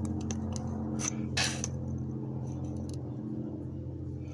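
A car engine idles steadily, warm, through new headers and Flowmaster mufflers. The header collectors have no gaskets and are not yet tight, so the exhaust is leaking there. There are a few light clicks and a short noise about a second and a half in.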